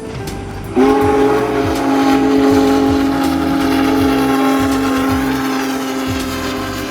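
Union Pacific Big Boy 4014's steam chime whistle: after a brief gap, one long blast starts just under a second in and holds, slowly fading.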